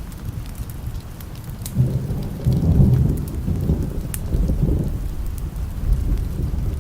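Thunder rumbles over steady rain, swelling about two seconds in, peaking a second later and dying away after a few seconds. Scattered sharp crackles sound throughout.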